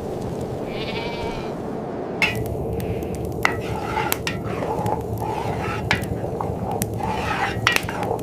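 A goat bleats once, briefly, about a second in, over steady blizzard wind. From about two seconds in come a run of sharp, irregular knocks and clicks.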